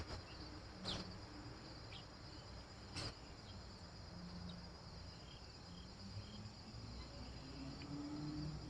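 Steady high-pitched chorus of crickets trilling continuously, with a couple of faint sharp clicks about one and three seconds in.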